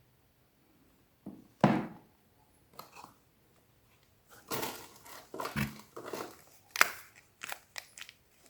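Soap being unpacked by hand: a sharp knock about a second and a half in, then stretches of wrapper crinkling and tearing, and a run of sharp taps and clicks near the end.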